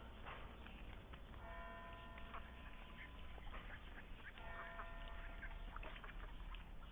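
Indian runner ducks quacking faintly in two bouts of calls, about a second and a half in and again about four and a half seconds in.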